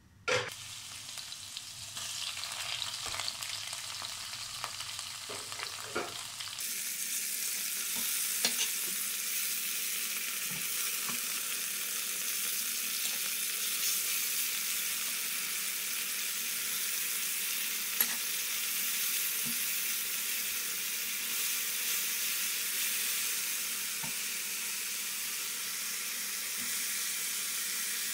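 Food frying in hot oil in a wok, a steady sizzle that starts with a sharp burst and grows louder and hissier about six seconds in. A silicone spatula stirs through it, with a few sharp taps against the pan.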